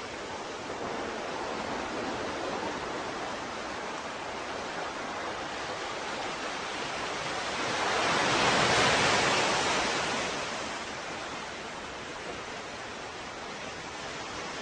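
Ocean waves washing on a shore: a steady hiss of surf, with one wave surging louder about eight seconds in and then easing off.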